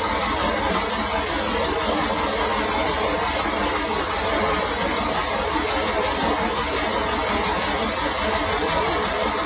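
Sawmill machinery running steadily: an engine-like drone with a fast low pulsing and an even mechanical hum, no change in pace.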